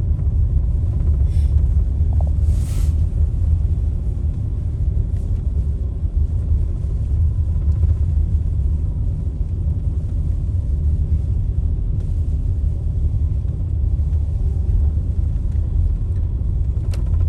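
Steady low rumble of a car on the move: road and engine noise, with a brief hiss about three seconds in.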